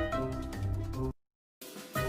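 Background music with a drum beat and a bass line. About halfway through it breaks off into a moment of dead silence, then a short rising hiss-like swell comes in as an edit transition before the music resumes.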